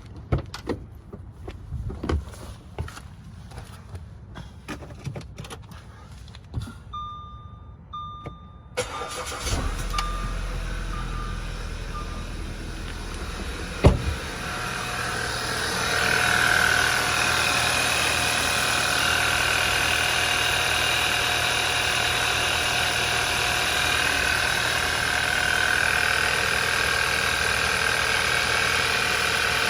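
A few knocks and clicks, then a few short electronic beeps. About nine seconds in, the 2011 Audi A4's 2.0 TFSI four-cylinder cranks and starts, and then runs steadily, with one sharp knock a few seconds after it catches and a rise in level shortly after. It now starts because the exhaust camshaft timing, which had been off, has been put right.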